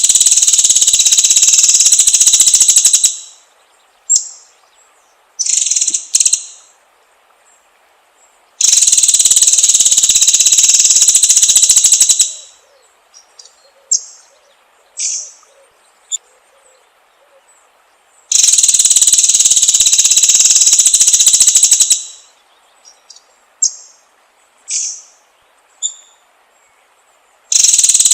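White-rumped shama (murai batu) song played as a lure: loud, rapid high trills of about three to four seconds, repeating roughly every nine seconds, with short single high notes and calls in between.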